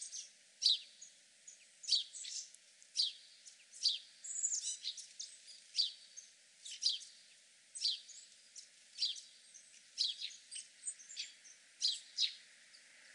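Bird chirping over and over: short, high, falling chirps, mostly in quick pairs about once a second.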